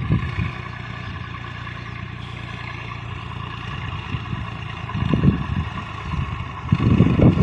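Tractor engine running steadily, with louder surges about five seconds in and again near the end.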